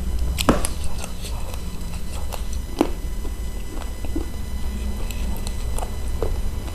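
Close-miked eating of spicy chicken feet: wet chewing, sucking and lip smacks in irregular short clicks, the sharpest about half a second in and near three seconds, over a steady low hum.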